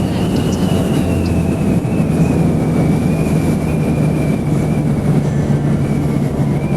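Motorcycle engine running at a steady pitch while riding, with rushing wind and road noise over it.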